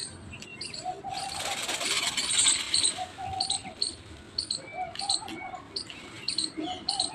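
Birds chirping and calling: short high chirps repeating every half second or so, with short lower notes between them. A loud rushing noise rises about a second in and lasts around two seconds.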